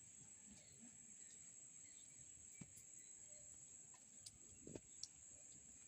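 Faint, steady high-pitched insect trill, typical of crickets, with a few soft clicks about two and a half and four to five seconds in.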